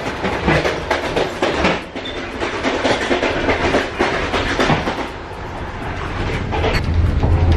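Russian passenger sleeper train running, heard from inside the enclosed passage between carriages: a dense run of wheel clatter and knocks over a steady running roar. A low rumble grows louder near the end.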